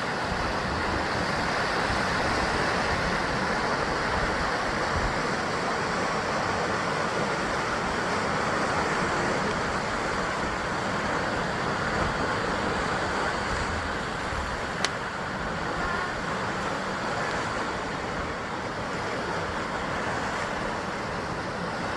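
Sea waves surging against a rocky shore in a continuous wash, swelling and easing slowly, with wind on the microphone. A single sharp click about fifteen seconds in.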